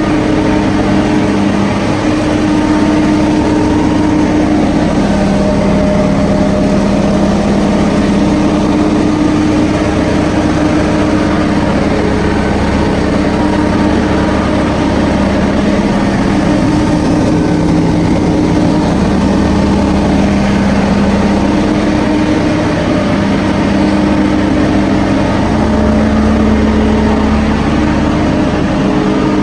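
Refrigerated truck's diesel engine idling steadily, a loud low running hum whose tone shifts slightly every few seconds.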